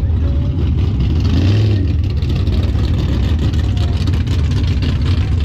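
Mega truck engine running loud with a deep rumble, revving up briefly about a second and a half in.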